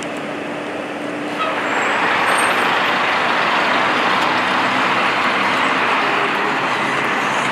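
Street traffic noise, steady and rushing, that grows louder about a second and a half in as heavier vehicles pass close by.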